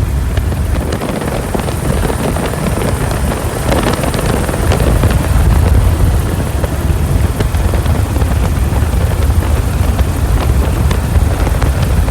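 Helicopter in flight, heard from aboard: steady, loud rotor and engine noise with a deep rumble and a faint high whine held steady throughout.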